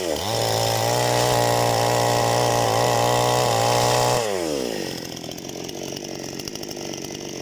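Parma BP-058 two-stroke chainsaw revved up to full throttle, held at a steady high whine for about four seconds, then dropping back to a low idle.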